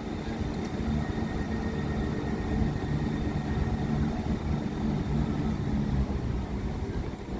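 Southern Class 171 Turbostar diesel multiple unit's underfloor diesel engines running under power with a steady low drone as the train comes into the station.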